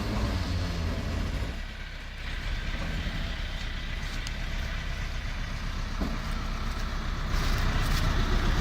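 Tractor diesel engines running hard, a low pulsing rumble from pulling a heavy trailer. It eases briefly about two seconds in and gets louder about seven seconds in.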